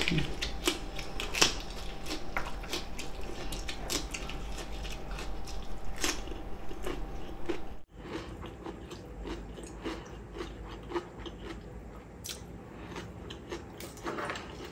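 Close-miked chewing and crunching of food, cabbage leaf wraps with soybean paste, with many crisp bites in the first half. About eight seconds in the sound breaks off abruptly and the chewing goes on softer and sparser.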